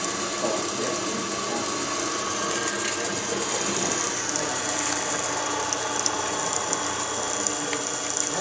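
Wood lathe running steadily with sandpaper held against the spinning wooden ornament: an even hiss over the motor's steady hum.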